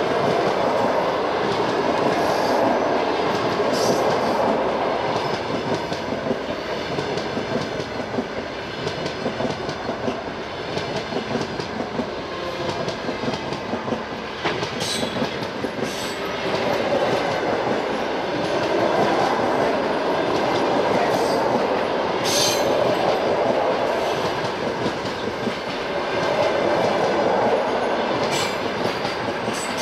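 Passenger coaches of a train rolling past, their wheels clattering over the rails, with a few brief high-pitched squeaks.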